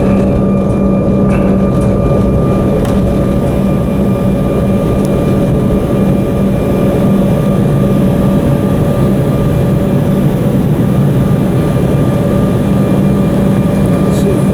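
Steady cabin drone of an Embraer 190's two GE CF34 turbofan engines and airframe rumble, heard from inside the cabin, with a few constant whining tones running through it.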